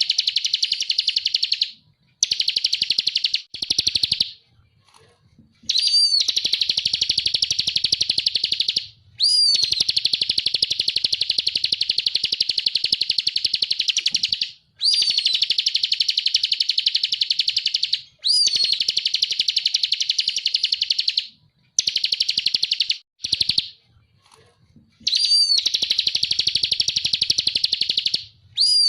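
Ciblek (a prinia) singing its rapid rattling trill ('ngebren') in repeated bouts of a few seconds each, separated by short pauses. Each bout opens with a sharp up-and-down note.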